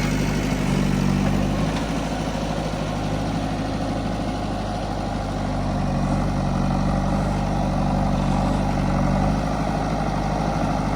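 Heavy machine's diesel engine running steadily at low, even revs.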